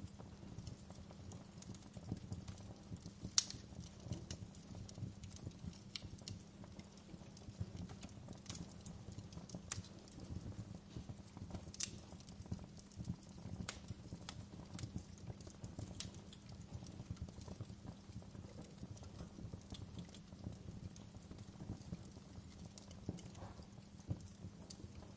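Fire crackling: irregular sharp pops and snaps over a low, steady rumble, with a louder pop about three and a half seconds in.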